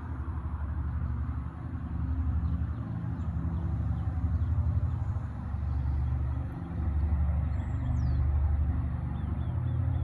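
The B-29 Superfortress FIFI's four Wright R-3350 radial piston engines running together: a deep, pulsing drone whose level swells and dips.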